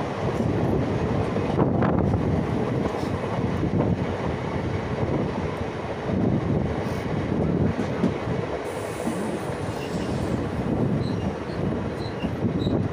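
Indian Railways passenger coach running at speed, heard from its open doorway: the steady rumble and rattle of the wheels on the rails.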